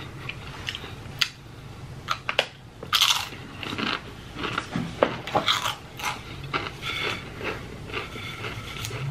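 Corn tortilla chips being bitten and chewed: a run of irregular crisp crunches and mouth sounds.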